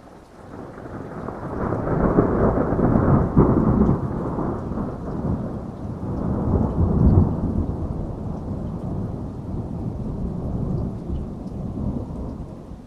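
A long roll of thunder over steady heavy rain. The rumble builds over about two seconds, peaks twice, then slowly dies away near the end, leaving the rain hiss.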